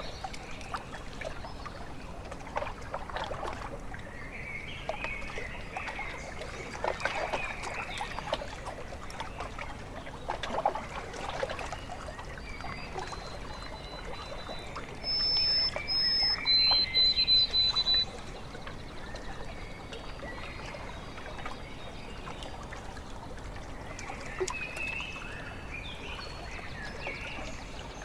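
Small waves lapping and trickling at a lakeshore, with birds calling throughout; a series of loud, high, steady notes comes from about 15 to 18 seconds in.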